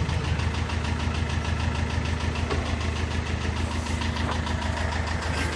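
David Brown 1490 tractor's four-cylinder diesel engine idling steadily with an even, rapid beat.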